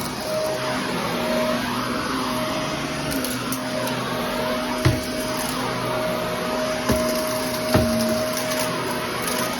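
Vacuum cleaner running steadily during a floor-cleaning test, with a few sharp knocks, the loudest about five seconds in.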